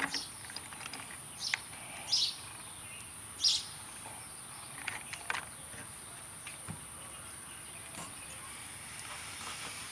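Steady high-pitched drone of insects, with a handful of short clicks and rustles scattered through it.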